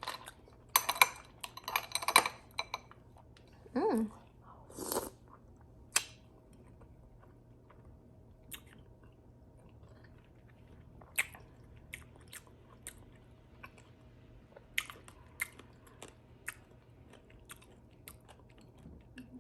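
A person chewing a mouthful of fruit and ice in coconut water close to the microphone: a dense run of sharp clicks for the first few seconds, then only the odd single click. Two short hummed sounds come around four and five seconds in.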